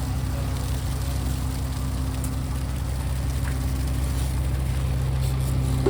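Fishing boat's engine running steadily underway, a low even drone.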